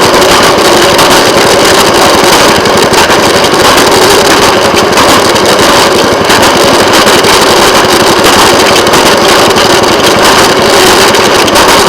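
Railway motorcar's small engine running steadily while the car travels along the track, loud and close, with a fast even pulse and no change in speed.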